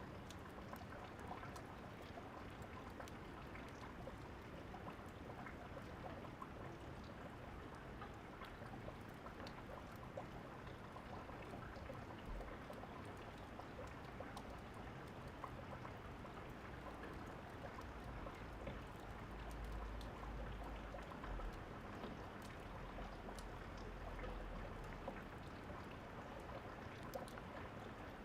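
Steady rainfall with scattered faint crackles of a wood fire. A low rumble of distant thunder comes in about two-thirds of the way through and fades a few seconds later.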